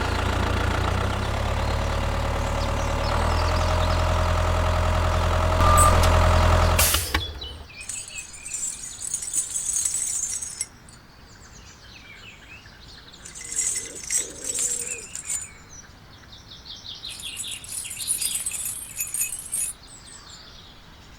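An engine running steadily, stepping up in pitch twice, then cutting off suddenly about seven seconds in. After that, birds chirp in several short bursts.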